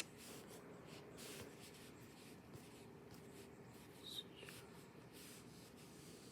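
Near silence: faint room tone with soft, irregular rustling, like handling or rubbing near the microphone, and a brief faint high chirp about four seconds in.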